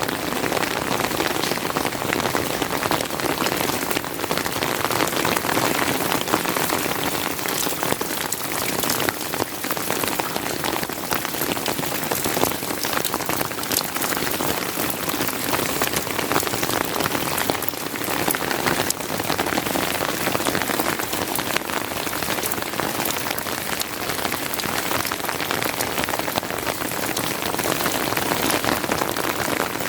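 Steady rain falling, a dense, even patter of many drops that never lets up.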